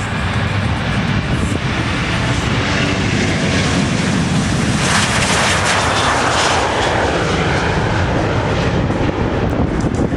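Jet airliner engines passing close by, a loud steady noise that builds and is loudest about halfway through.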